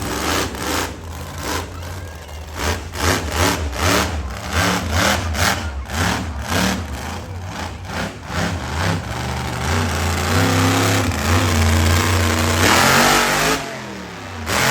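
Monster truck engine revved in quick repeated blips, then held at high revs for about three seconds before dropping off near the end.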